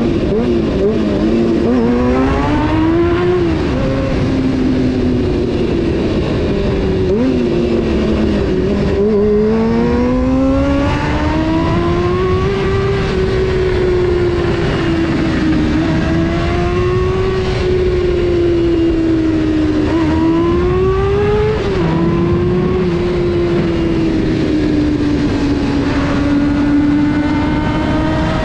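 Honda CBR600F4's inline-four engine under way: its pitch climbs several times as the bike accelerates, drops sharply at gear changes about three and a half seconds and twenty-one seconds in, and holds a steady, slightly wavering cruise in between and near the end, over a steady low rushing noise.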